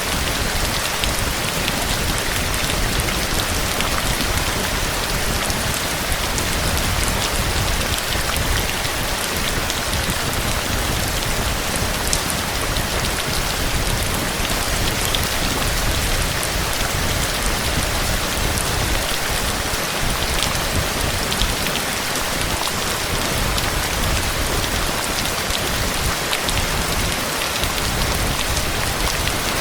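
Heavy rain falling steadily: a dense, even hiss of rain on surfaces with fine drop ticks, at a constant level.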